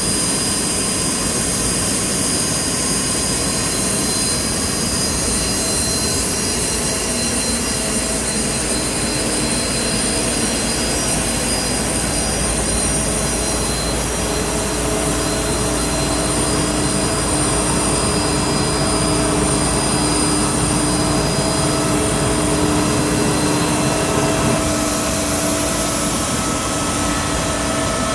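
Steady jet aircraft turbine noise: a continuous high whine over a broad rumble, with lower engine tones coming and going in the second half.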